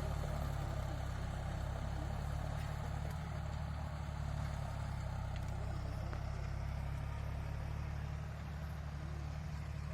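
John Deere 5105 tractor's three-cylinder diesel engine running steadily at a constant low speed, with a deep even drone.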